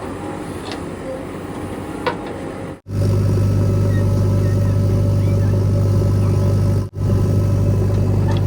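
Heavy-vehicle diesel engines running, in short clips cut together. A mixed engine rumble is heard first. After an abrupt cut about three seconds in, an engine runs loud and steady with a deep hum. Another brief cut comes near the end.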